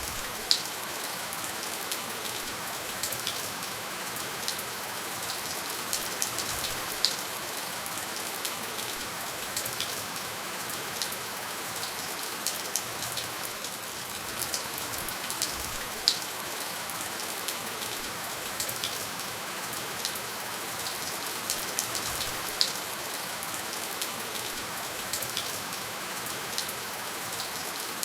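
Steady rain falling with no thunder: an even hiss with scattered close drop ticks, a few sharper ones standing out.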